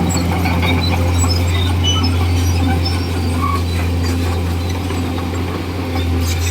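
Komatsu D41E bulldozer's diesel engine running at a steady pitch, with scattered short high-pitched squeaks over it.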